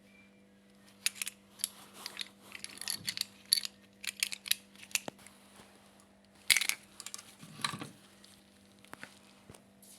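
Clicks and light metallic clinks of small parts and tools being handled, scattered irregularly, during work on a washing machine motor's carbon brushes. A faint steady hum runs underneath.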